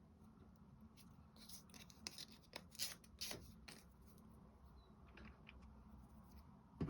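Near silence with faint scattered clicks and scrapes of small wooden clock-kit pieces being handled and glued by hand, and a sharper tap near the end.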